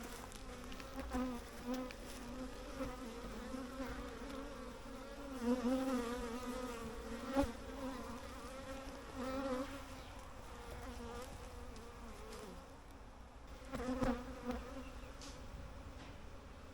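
Honey bees buzzing around an opened hive: a dense, wavering hum that swells louder as bees fly close past, a couple of times. The colony is agitated and defensive despite being smoked.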